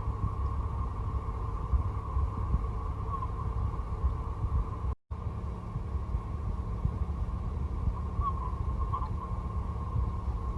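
Steady low rumble of a car driving, heard from inside the cabin, with a faint steady hum above it. The sound drops out completely for a moment about halfway through.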